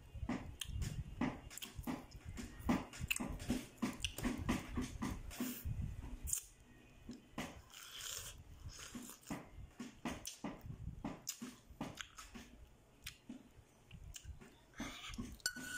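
Ripe pineapple chunks being bitten and chewed, with many short mouth clicks and smacks.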